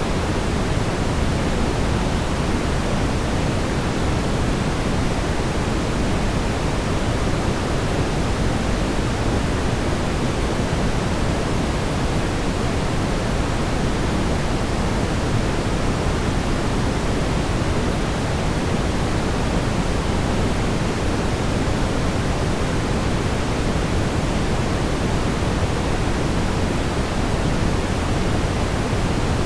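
Steady brown noise: an even, unbroken rumbling hiss weighted toward the low end, with no changes.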